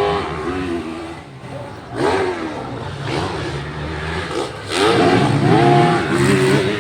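Motocross dirt bike engines revving, their pitch climbing and dropping in repeated bursts, loudest about five seconds in.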